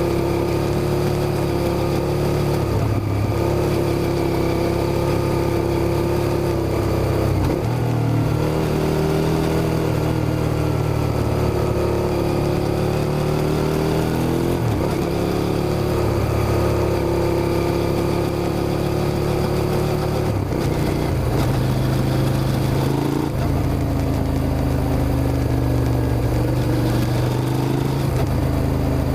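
Suzuki SV650's 90-degree V-twin engine running continuously. Its note shifts and steps in pitch several times with throttle and gear changes.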